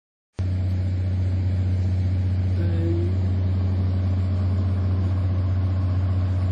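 An engine running steadily with a loud low drone that cuts in suddenly about half a second in.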